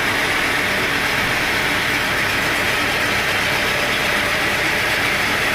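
Sawmill machinery running steadily: a continuous engine-like drone with a hiss strongest in the upper middle.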